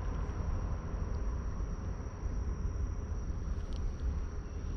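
Outdoor background: a low rumble with a constant high-pitched insect drone over it, and a few faint ticks near the end.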